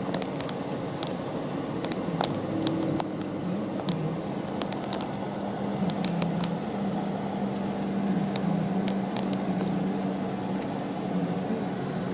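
Steady low engine and road hum heard from inside a car's cabin while driving, with scattered sharp clicks throughout.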